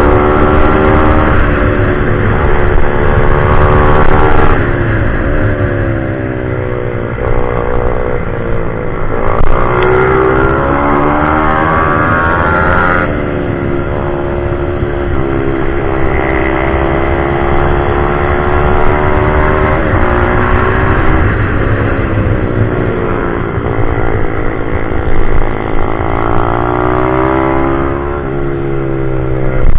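Pit bike's small single-cylinder engine revving up and dropping back again and again as the rider accelerates, shifts and brakes, the pitch climbing and falling several times.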